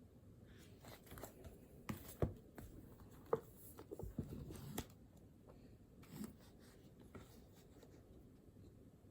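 Faint rustling of paper with a scatter of small clicks and taps from handling things on a desk; the two sharpest clicks come about two and three seconds in.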